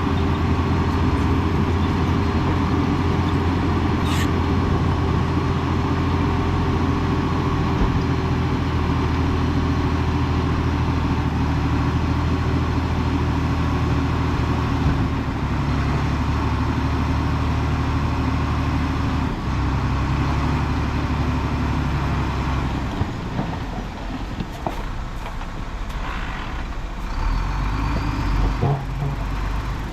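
Heavy diesel earthmoving or truck engine running under load, a steady low drone. It eases off about three-quarters of the way through to a quieter rumble with a few sharp knocks.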